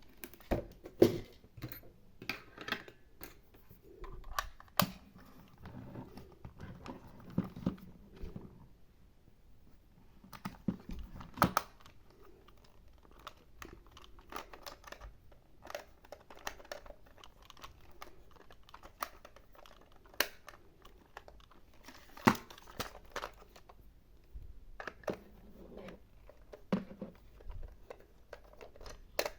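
Small plastic toy pieces being handled, giving irregular sharp clicks and taps with crinkling rustles in between.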